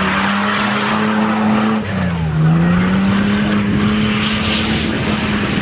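A vehicle engine running hard at steady revs. About two seconds in, the revs dip briefly, then climb back up.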